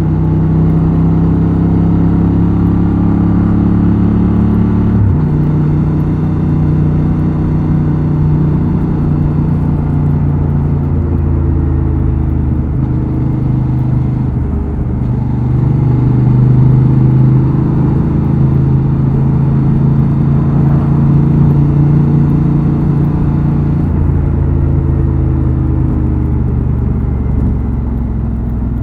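Honda XL750 Transalp's 755 cc parallel-twin engine and exhaust running on the move, at fairly steady revs that rise and fall a little. The engine note drops suddenly about five seconds in and dips briefly again about halfway through.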